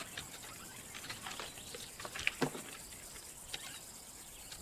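Faint, scattered scratches and short scrapes from a lion's claws gripping tree bark as it hauls itself up the trunk.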